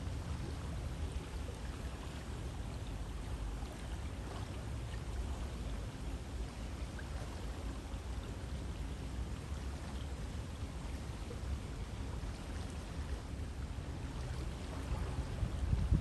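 River water flowing, a steady rushing and burbling that is strongest in the low range. A brief low rumble swells up near the end.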